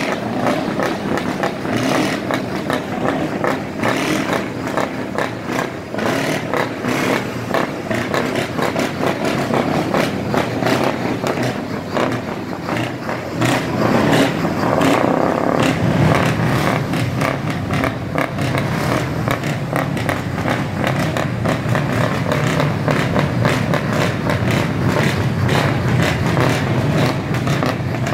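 Scania truck diesel engine running loud through its exhaust, with a rough, crackling rumble. It gets louder about halfway through and deeper from then on.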